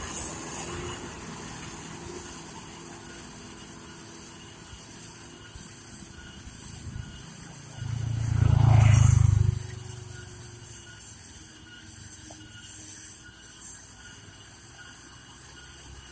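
Road traffic noise with a truck passing close by: its deep diesel engine swells loud for about a second and a half around eight seconds in, then drops away.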